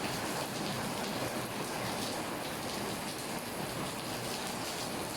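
Heavy rain falling steadily, pattering on surfaces.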